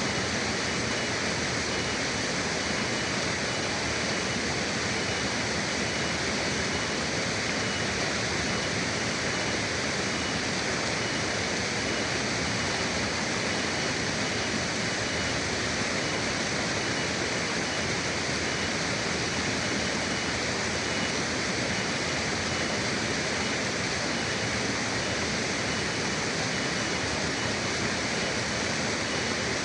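River water rushing and flowing steadily, an even, unbroken rush with no change in level.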